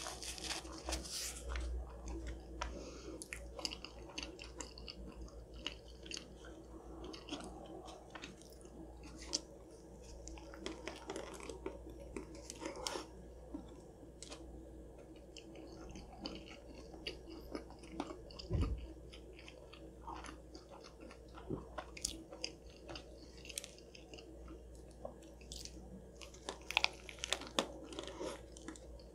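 Close-miked chewing of a grilled chicken club sandwich: a steady run of moist clicks and smacks with small crunches. Near the end comes a fresh bite.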